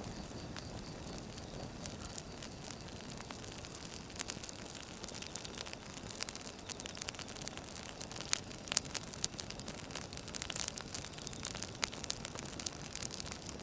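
Burning firewood crackling: a steady hiss with scattered sharp snaps and pops, which come thicker from about five seconds in.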